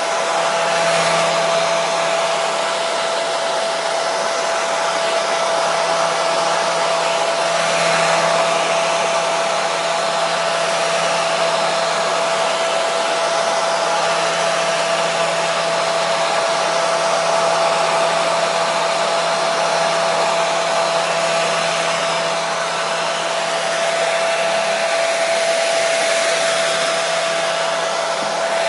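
Hair dryer running steadily: a constant rushing blow with a steady whine.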